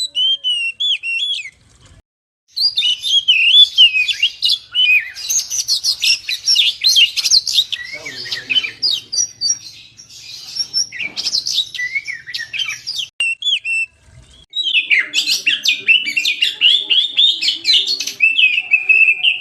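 Oriental magpie-robin singing a rapid, varied song of whistled notes and chattering phrases, breaking off briefly about two seconds in and again about fourteen seconds in.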